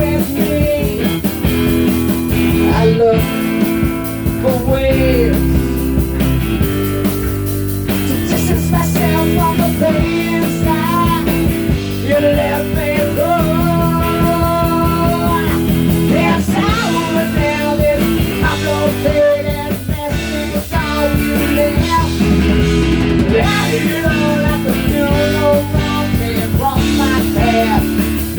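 Rock music with electric guitar and drums: an instrumental passage with lead guitar lines over steady chords.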